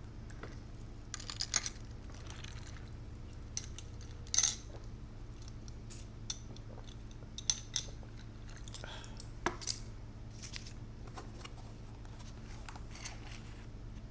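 Close-up eating sounds: chewing, with scattered sharp clicks and light clinks, the loudest about four and a half seconds in and again near nine and a half seconds, over a steady low hum.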